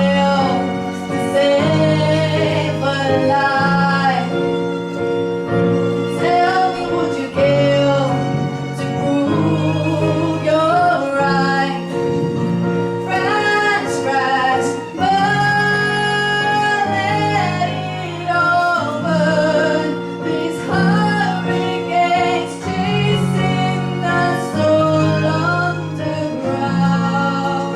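Female voice singing a slow ballad melody, accompanied by piano chords that change about every two seconds and two violins.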